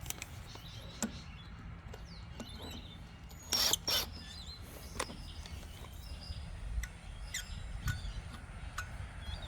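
Birds chirping over a steady low background rumble, with scattered sharp metallic clicks and two short, loud noisy bursts a little over a third of the way in.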